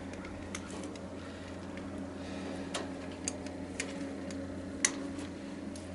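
Irregular sharp clicks and ticks of hand tools working on the tanning bed's wiring and metal parts, about eight in all, the loudest near the end, over a steady low hum.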